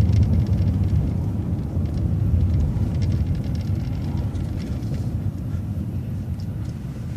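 City transit bus running, its engine and road noise heard from on board as a steady low rumble that fades gradually through the second half.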